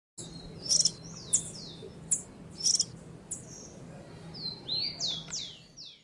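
Bird calling: a string of sharp, very high chirps, each with a short down-slurred whistle, then a quicker run of falling whistled notes near the end.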